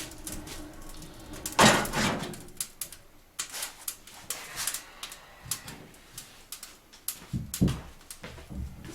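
Kindling crackling in a newly lit wood-burning fireplace: irregular sharp snaps and clicks. A louder knock comes about a second and a half in, and a few dull thumps near the end.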